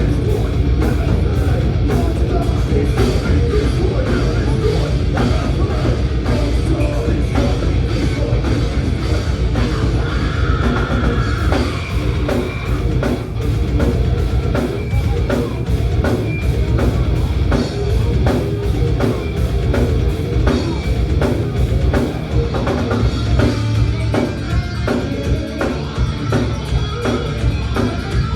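Thrash metal band playing live: fast, dense drum-kit hits under electric guitars and bass, loud and continuous.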